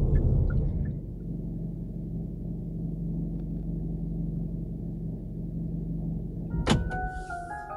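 Hyundai Veloster N's 2.0-litre turbocharged four-cylinder idling, heard from inside the cabin, settling to a steady idle about a second in. Near the end there is a click as the engine is switched off, followed by the car's short chime of several notes.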